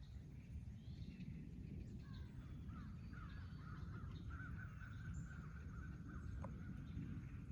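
Crows cawing faintly in the distance over a steady low rumble.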